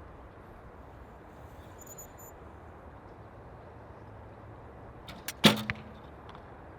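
Recurve bow shot about three-quarters of the way in: a couple of small clicks, then the loud sharp crack of the string's release with a brief low hum of the bow ringing after it. Steady wind noise on the microphone underneath.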